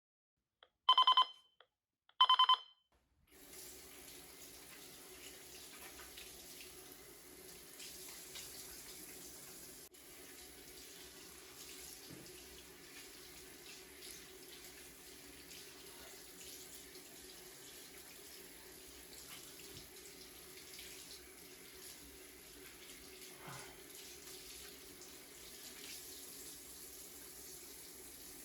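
Two short electronic beeps about a second apart, then water running steadily from a tap.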